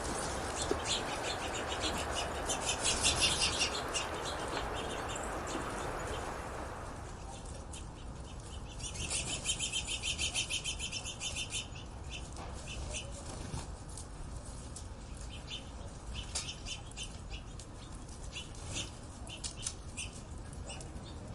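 Birds chirping, with two runs of fast trilled notes, about three seconds in and again around nine to eleven seconds. A steady low background rush drops away abruptly about seven seconds in.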